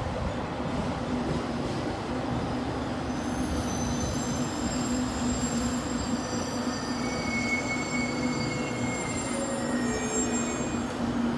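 JR 813 series electric multiple unit pulling into a station: steady running noise with a low hum, and thin high-pitched squeals from the wheels and brakes through the middle as it slows to a stop.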